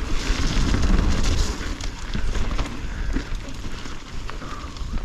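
Mountain bike rattling down a rough trail, with repeated sharp knocks as the wheels hit bumps. Under it runs a heavy low rumble of wind buffeting the helmet camera's microphone.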